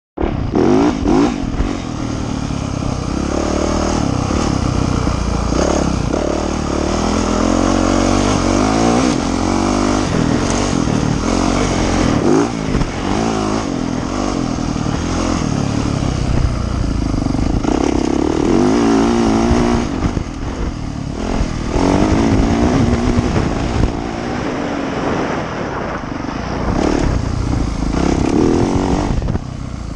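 Yamaha YZ450F four-stroke single-cylinder dirt bike engine being ridden hard, its pitch repeatedly climbing under throttle and dropping off as it shifts and backs off, with brief lulls about two-thirds of the way through.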